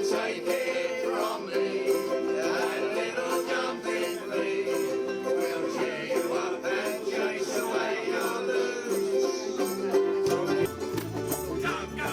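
A group of ukuleles strumming together in an instrumental passage with no singing. About eleven seconds in, a lower bass line comes in under the strumming.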